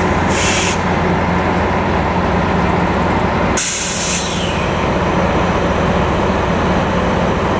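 A heavy diesel engine idling steadily, with two short hisses of compressed air, the first just after the start and a longer one about three and a half seconds in.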